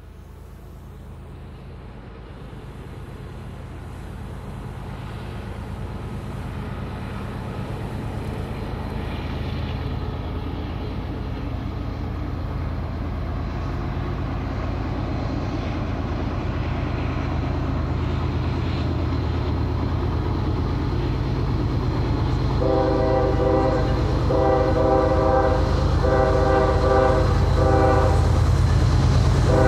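Diesel freight locomotives approaching, their low engine rumble growing steadily louder. In the last seven seconds or so the locomotive's multi-note air horn sounds a run of about four short blasts.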